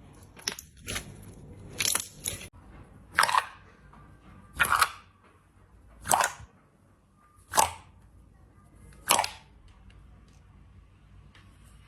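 Slime being pressed and worked by hand, giving short, sharp crackling pops about every second and a half, with a few smaller clicks at first.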